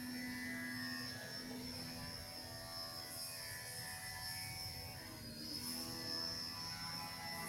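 WLtoys V977 micro RC helicopter hovering, its brushless motor and rotors giving a steady high whine over a low hum, the pitch wavering slightly as the throttle is adjusted about five seconds in.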